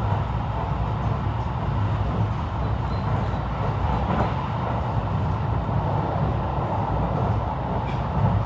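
Steady running noise of a JR West 223 series 5000 electric multiple unit under way, a low, even rumble with no sharp changes.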